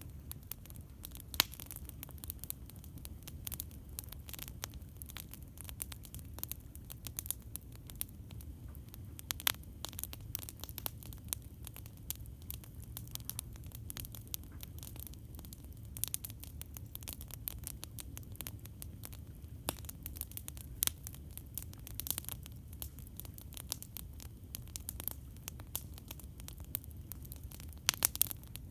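Campfire crackling: a dense, irregular stream of small snaps and pops, with a few louder pops, over a steady low rumble.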